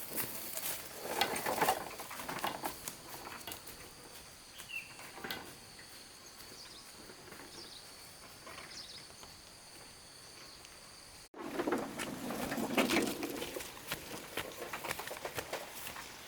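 Outdoor rural sound: a few short bird chirps over faint steady high tones. Scattered rustling and scraping come near the start and again after an abrupt break about 11 seconds in.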